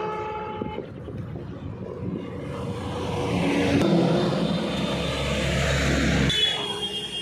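Road traffic on a highway, a vehicle passing close and swelling loudest in the middle.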